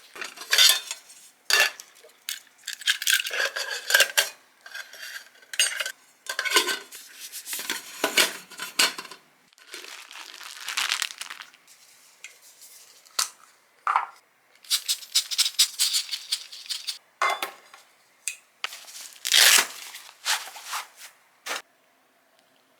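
Irregular rustling, crinkling and light clinks of packaging and camping gear being handled, in short bursts with brief pauses between them.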